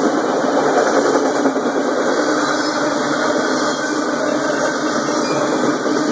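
Freight train of enclosed autorack cars rolling past close by: a steady, loud rumble and rushing noise of steel wheels on the rails.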